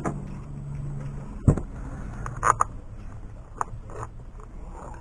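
Hand-work noises from parts and tools being handled under a car's hood: a sharp knock about a second and a half in, then a few lighter clicks and taps. A low hum stops just as the knock comes.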